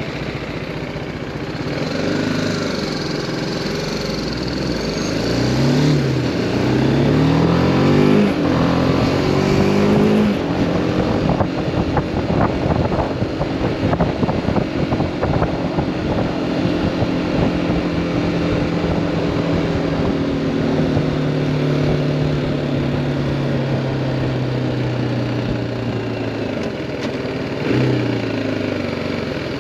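BMW G310R's single-cylinder engine accelerating, its pitch rising in several quick sweeps through the gears over the first ten seconds, then running at a steady pitch that slowly falls as the bike rolls off, with a short rev near the end.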